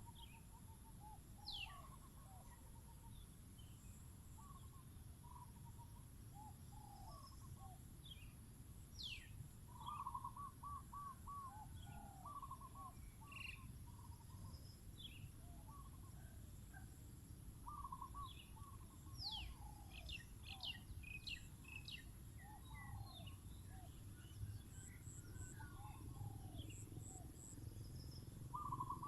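Spotted doves cooing in short repeated phrases, several birds overlapping, with other small birds chirping and whistling high above them. Faint.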